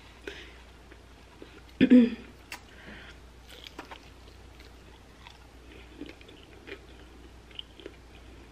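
Close-miked eating of a fried chicken wing flat in yangnyeom sauce: wet chewing and small crunchy clicks scattered throughout. About two seconds in there is one short, louder hummed vocal sound.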